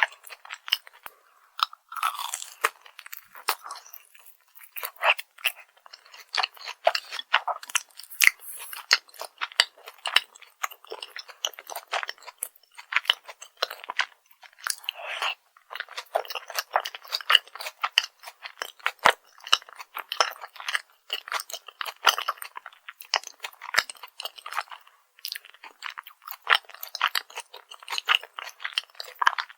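Close-miked chewing and crunching of crispy fried food, dense crackly bites and chews coming in runs with brief pauses in between.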